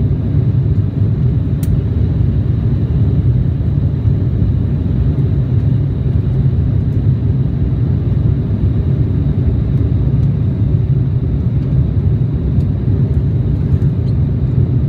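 Steady low rumble of an Embraer E175 jet heard from inside the passenger cabin, its CF34 turbofan engines running at a constant setting, with a faint steady high whine over the rumble.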